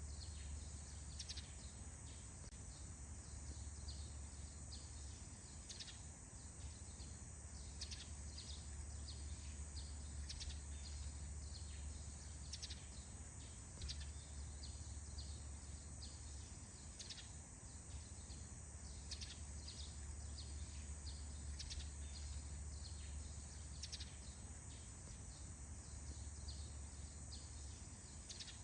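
Faint forest ambience at dawn: small birds giving short, scattered chirps every second or so over a steady high insect trill, with a low steady rumble underneath.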